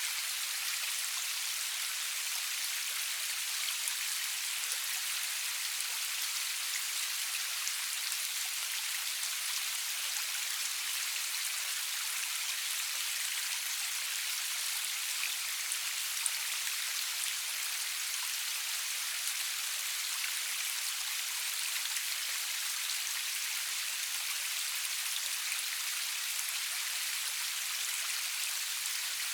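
Steady rain falling, a dense even hiss of drops with fine scattered patter, no thunder.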